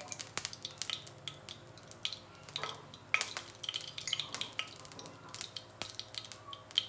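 A utensil clicking and scraping in a frying pan as a teaspoon of olive oil heats, with a faint sizzle: many light, irregular knocks.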